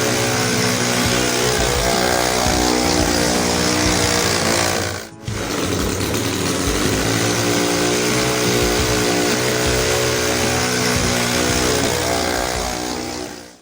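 Converted two-stroke generator engine on a J3 Kitten light aircraft running steadily at a fairly high speed on test. It breaks off for a split second about five seconds in, then runs on the same way.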